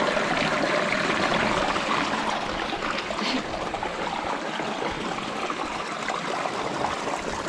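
Waterfall running: a steady rush of falling water that eases slightly toward the end.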